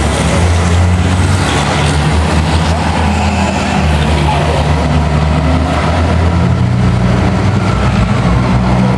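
Truck engine noise running steadily, its low hum shifting pitch a few times, over a constant background rumble.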